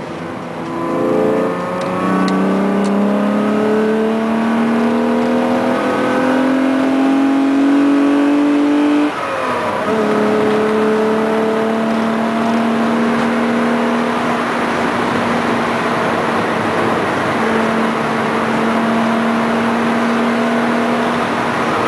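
VR6 engine of a Volkswagen Golf Mk2, heard from inside the cabin while driving. The revs dip about a second in, then climb steadily in one gear. They drop sharply at a gear change about nine seconds in and then hold steady at a cruise.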